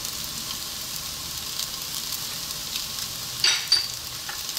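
Rice with diced carrot and potato frying in a wok, a steady sizzle with scattered crackles. About three and a half seconds in come two short, sharp clinks.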